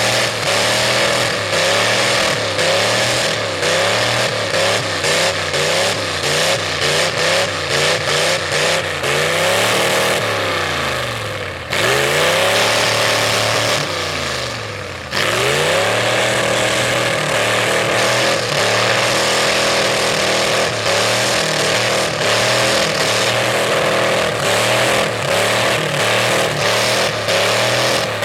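V8 mud truck engine on open upright headers, revved hard with constant throttle blips, its note rising and falling about once a second. About halfway through the revs fall away twice and then jump back up sharply.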